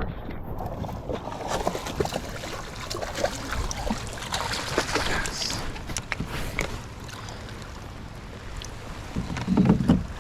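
Knocks and handling noise on a kayak, over water and wind noise on the microphone, with a louder low thump near the end.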